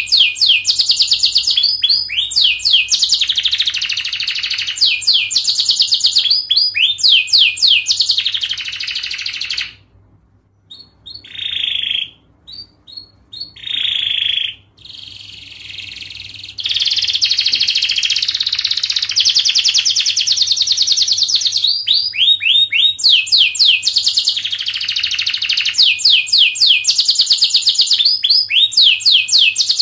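Domestic canary singing long, rapid, tightly packed trills and quick falling sweeps. About a third of the way in the song drops off to a few short phrases, then the long fast trills start again.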